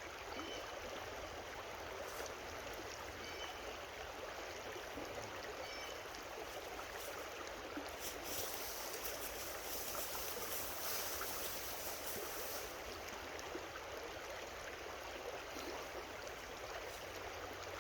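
Creek water running steadily over stones, an even rushing and trickling. A higher hiss joins for a few seconds around the middle.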